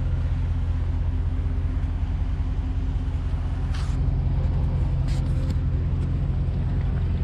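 2020 Dodge Charger Scat Pack's 6.4-litre HEMI V8 running at a steady cruise, a constant low drone of engine and road noise.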